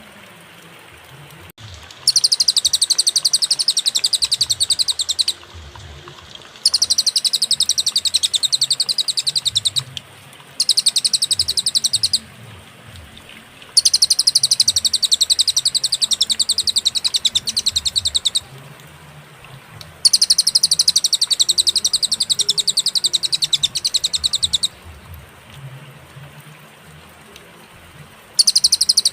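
Cililin bird singing a very fast, high-pitched trill in bouts of a few seconds each, broken by short pauses of a second or two. The first bout starts about two seconds in, and six bouts are heard in all.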